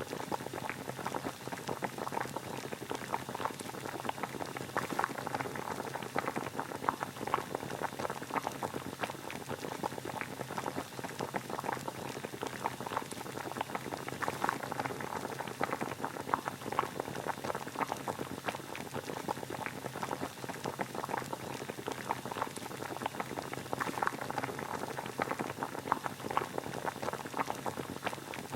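Water boiling at a steady rolling boil, a dense, even crackle of small bubbles popping.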